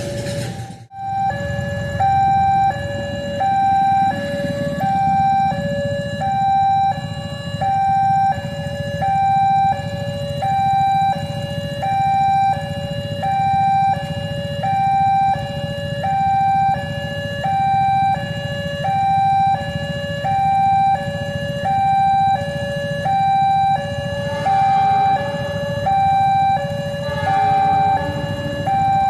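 Level crossing warning alarm sounding a loud electronic two-tone signal, high and low tones alternating about twice a second, over a steady low rumble.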